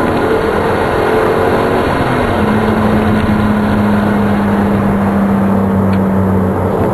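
Single-turbo 2004 Hyundai Tiburon on the move, heard from inside the car: the engine holds a steady note under a constant rush of road and wind noise.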